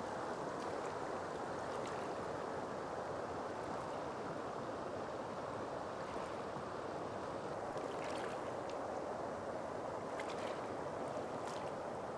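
Steady rush of flowing water, even and unbroken, with a few faint clicks over it.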